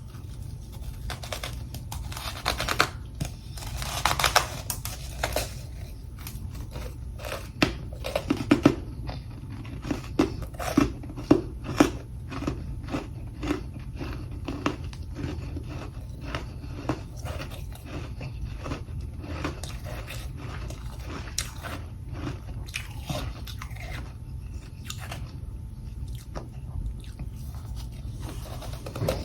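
Close-up crunching and chewing of freezer frost: many crisp bites and crunches throughout, densest and loudest about a third of the way in.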